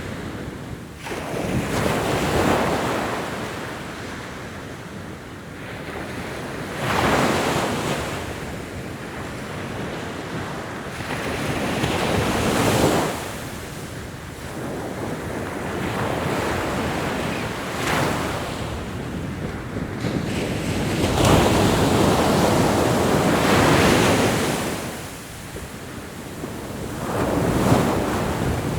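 Ocean surf: waves breaking and washing up the shore, the rush swelling and fading roughly every five seconds.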